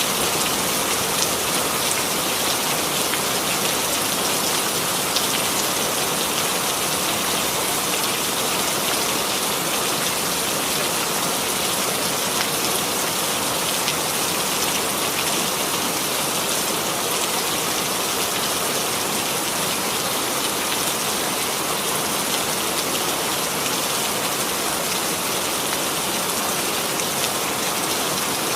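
Steady rainfall, an even patter of drops on a surface with scattered individual drop ticks.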